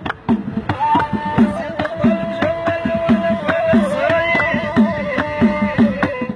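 Gasba reed flute playing long held notes over a steady hand-drum beat; the flute comes in about a second in, holding a higher note and then stepping down to a lower one.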